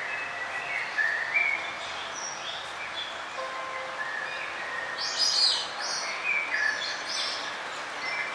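Several songbirds chirping and singing, short chirps and trills at different pitches over a steady background hiss. The loudest is a quick run of high chirps about five seconds in.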